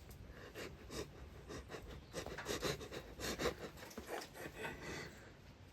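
Faint, irregular clicks and scrapes of a spanner working a stubborn part on the car, with the mechanic breathing hard from the effort.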